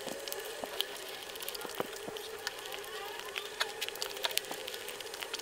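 Close-miked eating sounds: chewing soft khachapuri bread with many small wet mouth clicks and smacks, then swallowing sips from a bottle.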